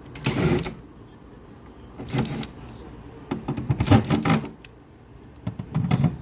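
Handling noise: several short bursts of clattering and rubbing, with a quick run of clicks about four seconds in.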